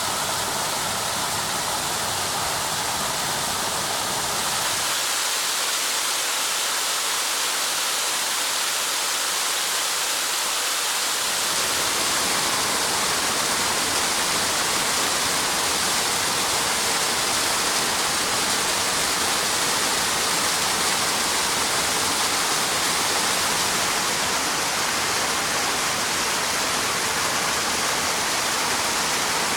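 Waterfall: a steady rush of falling water. From about five seconds in until about eleven seconds in, the low rumble drops away and only the higher hiss of the water remains.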